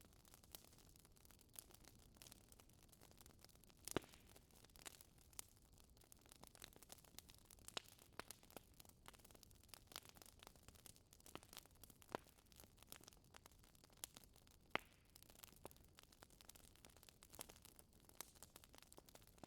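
Wood fire crackling: a steady scatter of small pops and snaps over a soft hiss, with two sharper, louder pops about four seconds in and about three-quarters of the way through.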